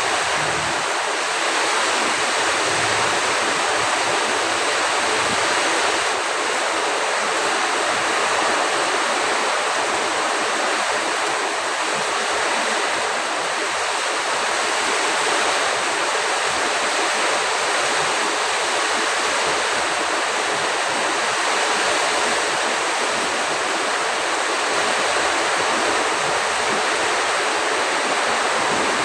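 Heavy storm rain pouring down with gusting wind: a loud, dense, steady hiss that hardly changes.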